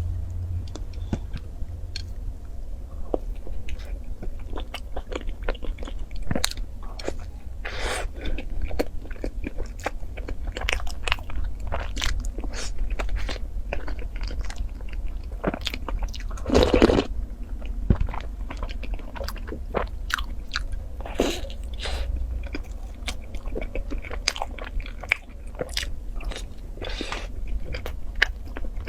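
Close-up mouth sounds of a person eating: irregular biting, chewing and crunching with wet smacks, over a steady low hum. A louder, longer rush of noise comes about halfway through.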